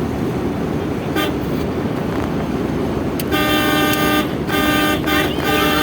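Steady road and engine noise of a moving Maruti Suzuki Eeco, then a vehicle horn honks in several blasts starting a little past halfway, the last one running on.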